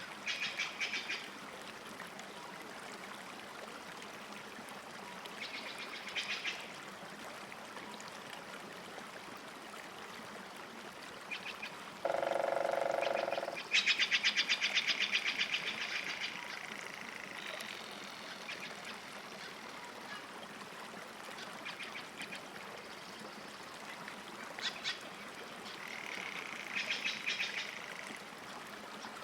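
Small birds chirping and trilling in short bouts over a faint steady wash of lake water, with one lower, steady call of under two seconds about twelve seconds in.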